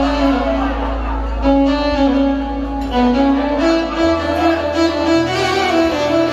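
Live Arabic band music: a violin or string line carrying a sustained melody over a steady low bass, with no singing.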